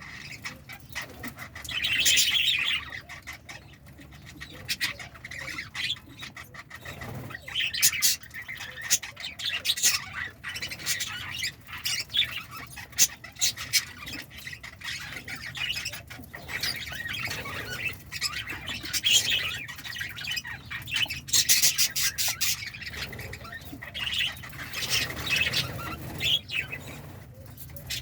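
Budgerigars chirping and squawking in short, sharp, rapidly repeated calls.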